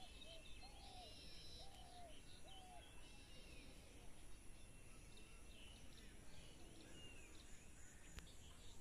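Faint outdoor ambience with birds calling: a run of four short arched notes in the first few seconds, and scattered higher chirps throughout.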